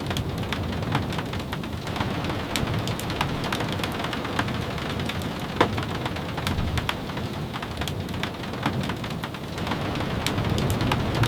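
Steady rain with a low rumble underneath and scattered sharp crackles and ticks throughout, like a wood fire crackling. One louder pop comes about halfway through.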